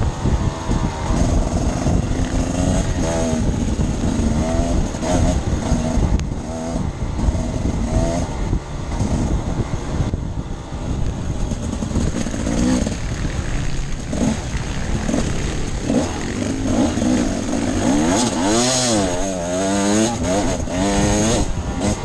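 Off-road dirt bike engine revving up and down as the throttle is opened and closed while riding, with a big rise and fall in pitch near the end.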